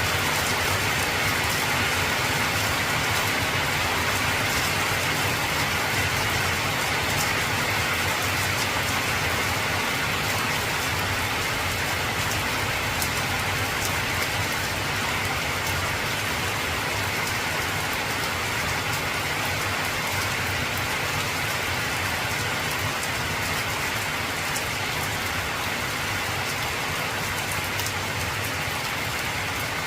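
Heavy rain falling on an old corrugated tin roof: a steady, dense patter with many small drop ticks, and no thunderclap.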